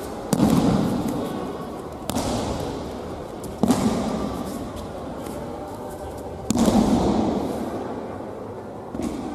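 Aikido breakfalls: bodies thudding onto tatami mats, five sharp impacts at uneven intervals, each echoing briefly in the hall.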